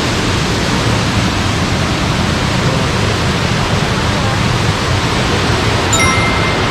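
Loud, steady rush of a waterfall's falling water. A brief thin high tone sounds near the end.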